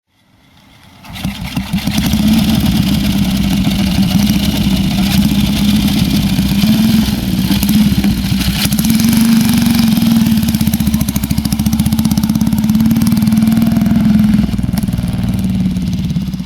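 1937 Rudge racing motorcycle's four-valve single-cylinder engine running, rising in over the first couple of seconds, holding a steady note with small changes in pitch, and fading away near the end.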